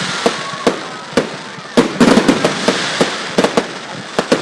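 Fireworks display: aerial shells bursting in sharp bangs at irregular intervals, with a quick cluster about two seconds in, over continuous crackling.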